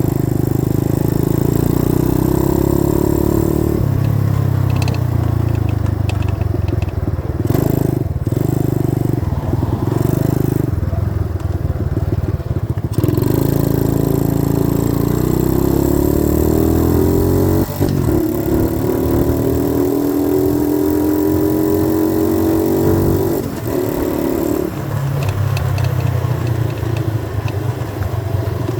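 90cc dirt bike engine running under way with the throttle worked. In the second half its note climbs steadily twice, dropping off between the climbs.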